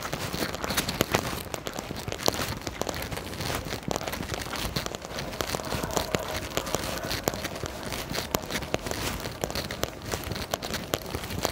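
Rain pattering close to the microphone: a dense, irregular crackle of drops striking a surface, over a steady hiss of rain.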